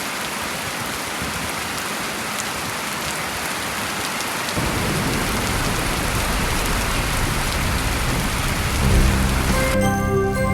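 Recorded rain sound effect, a steady hiss of falling rain, with a low thunder rumble joining about halfway. Near the end the rain cuts off suddenly and music with bell-like notes begins: the opening of a song backing track.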